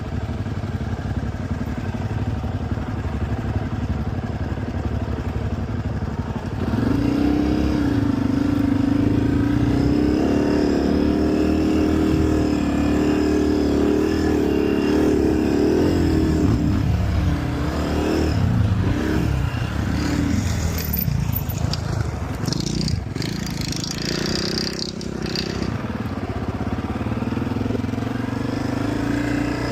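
Dirt bike engine running while being ridden along a trail. It starts at a low rumble, revs up about six seconds in and holds a steady pitch. Its pitch rises and falls through the middle, with a few brief noisy bursts, and it picks up again near the end.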